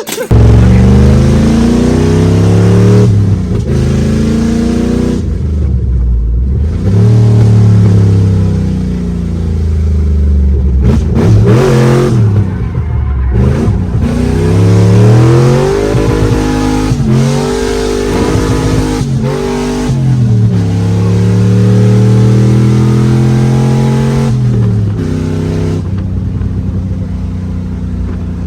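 A car engine revving hard over and over, its pitch climbing and dropping every few seconds, then settling into a steadier lower note in the last few seconds.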